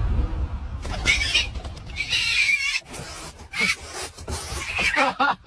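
A series of short, high-pitched, wavering animal calls, with a lower wavering call near the end. A low rumble fades out in the first second.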